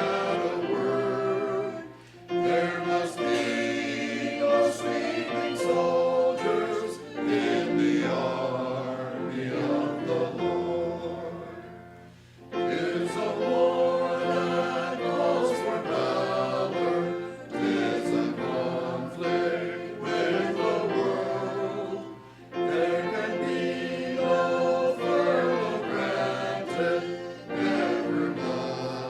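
Congregation singing a hymn together in phrases, with short breaks between lines.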